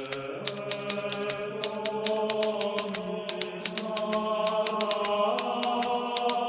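Hermes Baby manual typewriter keys striking in an irregular run of sharp clacks, a few per second. Behind them, a slow sustained droning tone whose pitch shifts every few seconds, like chanting or background music.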